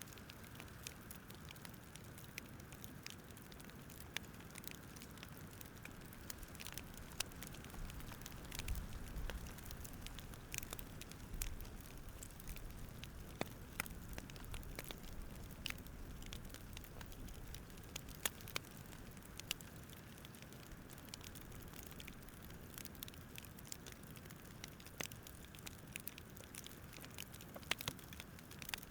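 Campfire crackling: irregular small pops and snaps over a soft steady rush.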